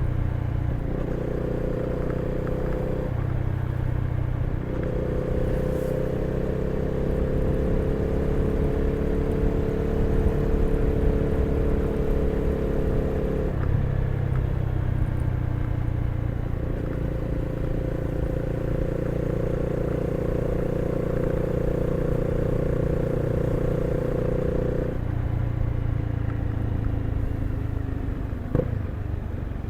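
Honda CB300R's single-cylinder engine running on the move. Its pitch holds steady for stretches and shifts in steps several times, with two short clicks near the end.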